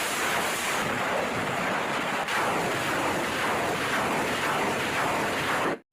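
Water spraying steadily as a muddy toy truck is rinsed clean, cutting off suddenly near the end.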